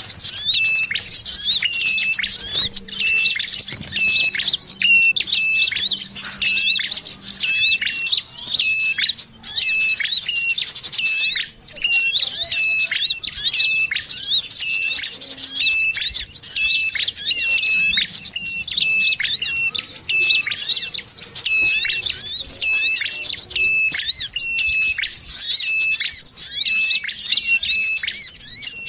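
Bird-lure recording of small songbird calls: a dense, continuous high chattering twitter, with a short clipped note repeated about once a second underneath, played in a loop.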